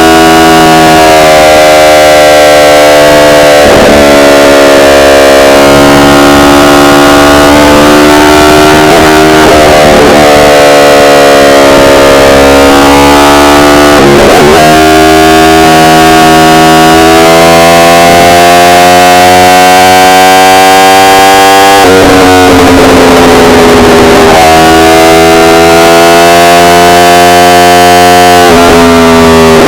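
Yamaha R1's inline-four engine under way, its pitch climbing steadily for several seconds and then falling sharply before climbing again, several times over. The recording is overloaded and sounds distorted.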